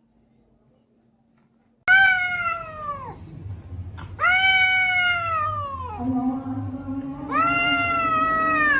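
Cat meowing: three long, drawn-out meows after a brief silence, each falling in pitch as it ends.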